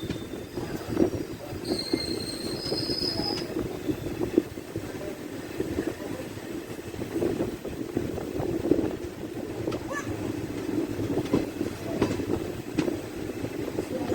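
Kacheguda–Kurnool DEMU passenger train running along the track: a steady rail rumble with irregular wheel clicks over the rail joints, and brief high wheel squeals in the first few seconds.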